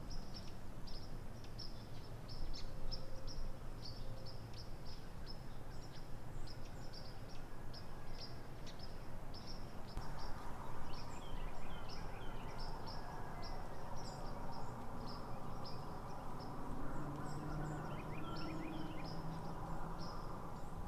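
A small bird chipping repeatedly, with short high chirps about two or three a second, and a few lower calls from other birds over a low outdoor background hiss.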